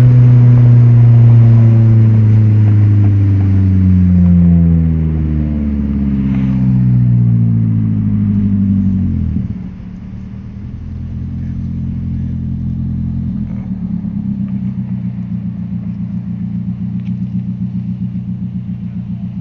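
2014 Nissan Sentra's four-cylinder engine, fitted with aftermarket headers, exhaust and an HKS muffler, heard on the move. Its pitch falls as the car slows, rises briefly about four seconds in, then falls again. About nine seconds in it drops to a quieter, steady low drone with a faint pulsing.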